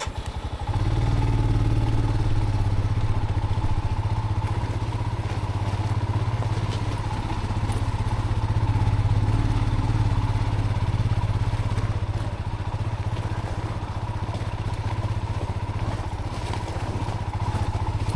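A motorcycle engine comes on about a second in and then runs steadily at idle.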